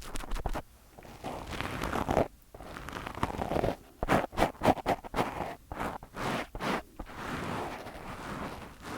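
Fingers touching a microphone up close: runs of quick taps alternating with longer rubbing, brushing strokes across it.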